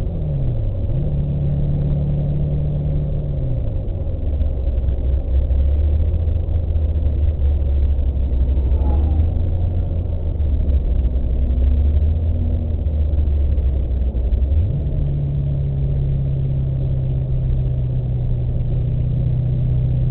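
Car engine heard from inside the cabin while the car laps a racetrack. The engine note dips and recovers in the first second, drops lower at about three and a half seconds and holds there, then jumps back up about 15 seconds in and stays steady, easing down at the very end.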